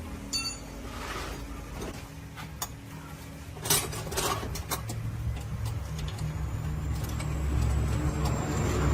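Dump truck engine running with a low rumble that builds in level through the second half, with a few sharp metallic clanks about four seconds in.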